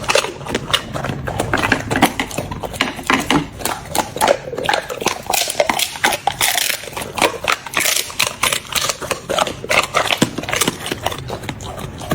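A small dog chewing a dried pig ear, with rapid, irregular crunching, several crunches a second.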